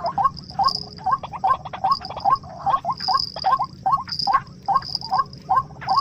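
Rapid series of short, repeated animal calls, about two to three a second and evenly paced, with a high buzzing that comes and goes behind them.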